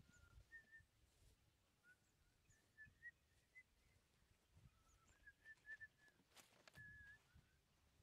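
Faint, short bird chirps repeating irregularly, with a few soft footfalls in the grass and a single sharp click about six and a half seconds in.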